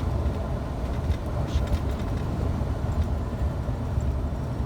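Scania truck driving on the road, heard from inside the cab: a steady low engine and road rumble, with a few light rattles.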